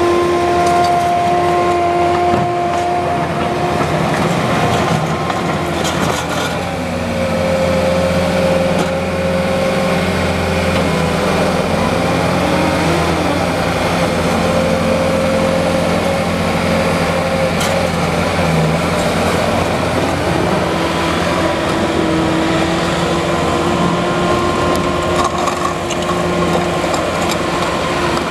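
Bobcat T630 skid steer loader running, its diesel engine note steady with a pitch that falls about six seconds in, rises briefly near the middle and climbs back up about twenty seconds in, as engine speed changes. A few short knocks and clunks come through over the running.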